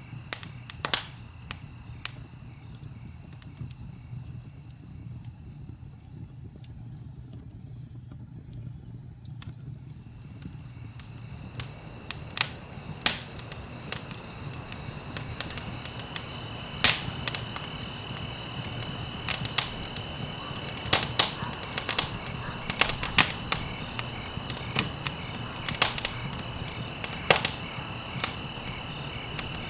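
Wood fire crackling and popping over a low rumble of flames, the pops sparse at first and coming thick and fast through the second half. A steady high-pitched tone runs in the background and grows stronger partway through.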